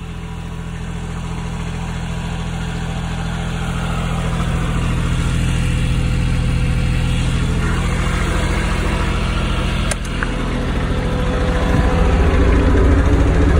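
Toro Groundsmaster 328D's Kubota diesel engine running steadily. It grows louder over the first few seconds, gives a brief click about ten seconds in, then grows louder again near the end.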